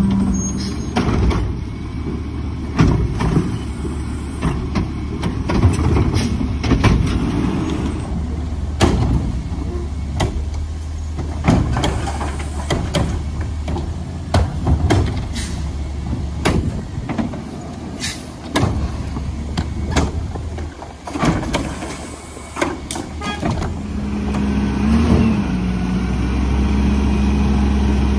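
Garbage truck at work: its diesel engine runs steadily under many sharp bangs and clatters, and the engine sound rises and holds over the last few seconds.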